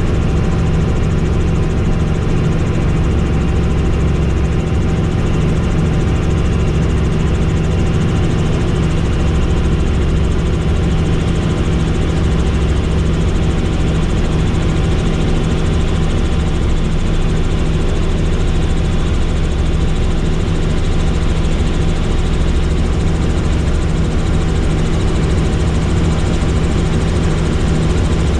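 Helicopter in flight: its engine and rotor running at a steady, unchanging drone, with a low rumble underneath.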